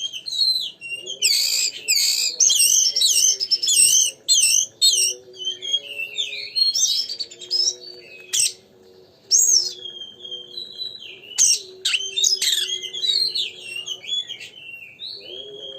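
Oriental magpie-robin (kacer) singing in full voice: rapid, varied whistled phrases with sharp up-and-down sweeps and harsh chattering notes. Beneath it runs a quieter line of low, steady tones that step between two or three pitches.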